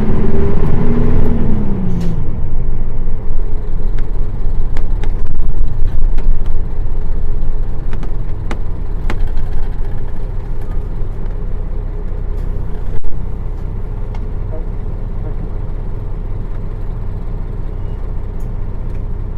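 Nissan Diesel PF6 six-cylinder diesel of a KL-UA452KAN city bus, heard from inside the bus. The engine pulls with its note rising for about a second and a half, then drops off as the throttle is released. The bus slows with the engine settling to a steadier, quieter rumble, with scattered rattles and one sharp knock near the end.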